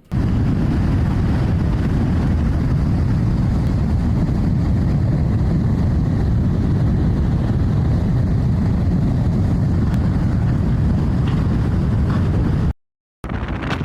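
Heavy wind buffeting the microphone: a loud, steady low rumble that cuts off abruptly near the end.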